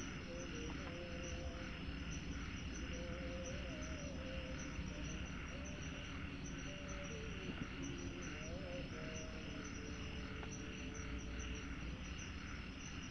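Forest insects chirping in a steady high pulsing drone, with faint wavering tones gliding up and down beneath it.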